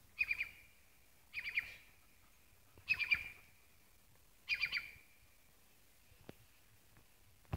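A bird calling repeatedly outdoors. Each call is a short group of three or four quick high notes, coming about every second and a half, four times in all.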